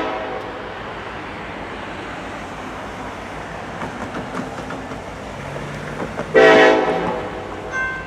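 Norfolk Southern EMD SD70ACE locomotive sounding its multi-note air horn: one blast cuts off right at the start, then a steady rumble from the passing train, then a second short horn blast, the loudest sound, about six and a half seconds in. A ringing tone repeating a few times a second starts near the end.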